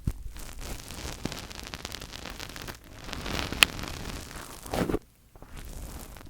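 Fingers rubbing and scratching directly on a microphone: a continuous close rustling scrape, with one sharp tap about three and a half seconds in and a brief louder rub just before a short quiet gap near the five-second mark.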